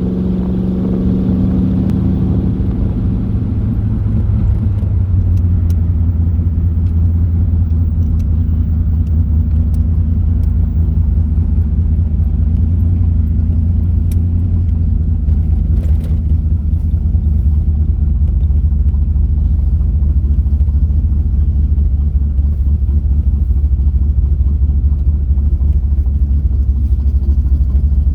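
C3 Corvette V8 engine and exhaust heard from the open car while driving: the engine note drops in the first few seconds, then holds a steady low drone at cruise.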